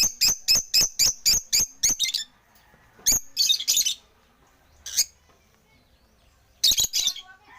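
African lovebirds chirping: a quick run of sharp, high-pitched chirps, about four a second, for the first two seconds, then scattered single chirps and short clusters with quiet gaps between them.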